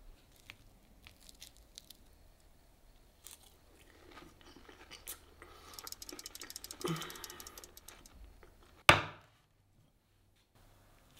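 Crunchy chewing of a deep-fried, breadcrumb-coated sushi roll, after a few light clicks. Near the end a single sudden loud sound sweeps down in pitch.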